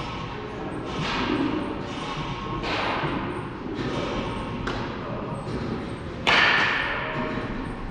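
A run of sharp baseball impacts about a second apart, each ringing briefly in a large echoing room; the loudest comes near the end.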